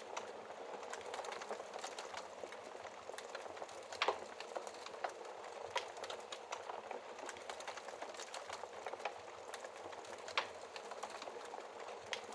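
Wood fire burning in a fireplace, a steady hiss of flames with irregular crackles and pops from the burning logs, the loudest pops about four seconds in and again near ten seconds.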